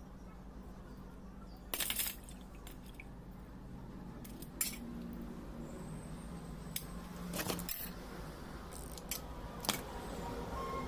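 Small metal parts and hand tools clinking and clicking as a diesel fuel injection pump is assembled by hand, a handful of separate sharp knocks over a low steady hum.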